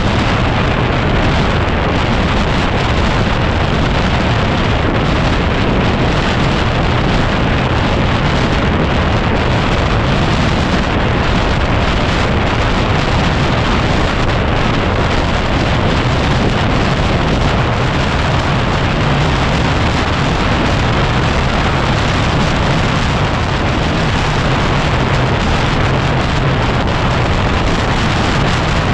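Heavy wind noise buffeting the microphone of a moving motorcycle, a steady loud rush, with the 2010 Yamaha WR250R's single-cylinder engine running underneath.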